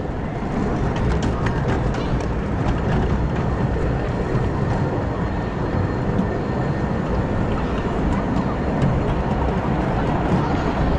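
Miniature steam train running along the track, heard from on board: a steady rumble and rattle of the cars, with a few faint clicks in the first couple of seconds.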